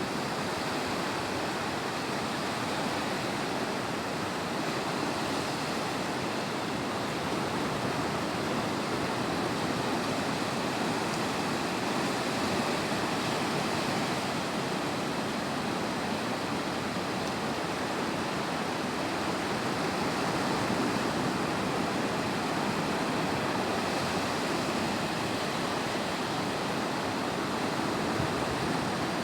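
Sea surf breaking on a beach: a steady rush of waves, swelling slightly now and then.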